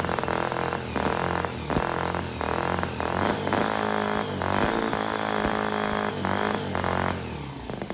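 CISON FG-VT9 9cc miniature V-twin four-stroke model engine running with the throttle blipped over and over, its pitch rising and dropping every second or so. Near the end it falls back to a low idle with separate firing pulses.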